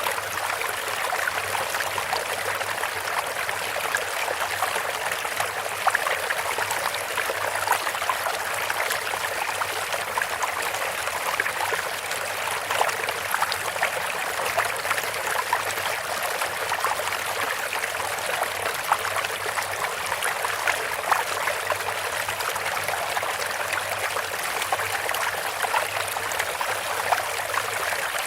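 Bamboo water fountain: water trickling steadily from the bamboo spout into the water below, with small irregular splashes through it.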